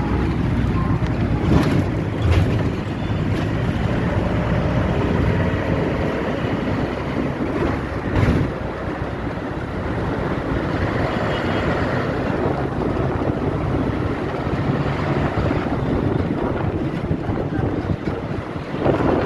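Truck traffic rumbling steadily, with wind buffeting the microphone and a few brief knocks.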